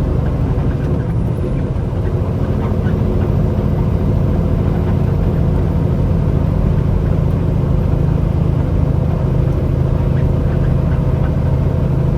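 Semi-truck's diesel engine running steadily with road noise, heard from inside the cab while driving.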